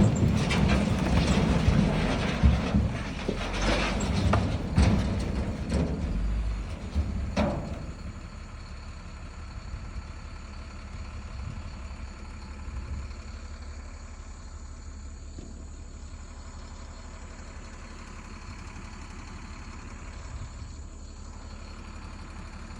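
Dump truck running, loud with a low rumble and knocks and rattles for the first seven or eight seconds, then dropping away to a quieter, steady low hum.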